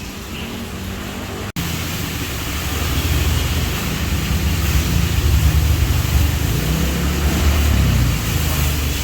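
Steady low rumble with a hiss over it, like a car running, cut off for an instant about a second and a half in and then louder for the rest.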